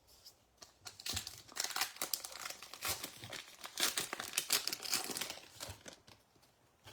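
Plastic foil wrapper of a baseball trading card pack being torn open and crinkled, a dense crackle of sharp crinkles lasting about five seconds.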